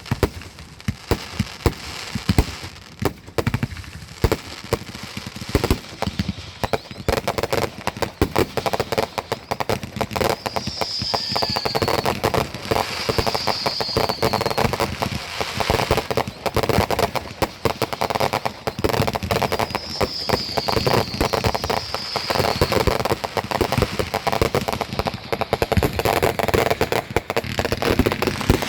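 Fireworks going off in rapid succession: dense popping and crackling that thickens into a near-continuous crackle about a quarter of the way in, with several short falling whistles over it.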